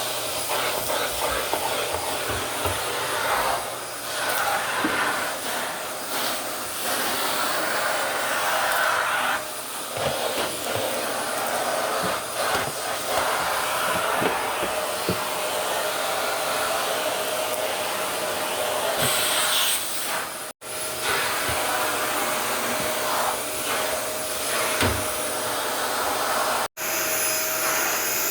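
Eureka Mighty Mite canister vacuum running steadily on a hard floor, a constant whine over the rush of air. It cuts out sharply twice, for a split second each time, in the last third.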